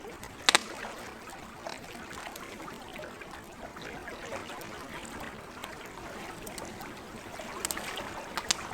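Campfire crackling, with sharp pops over a steady wash of lake water. The loudest pop comes about half a second in, and a few more come close together near the end.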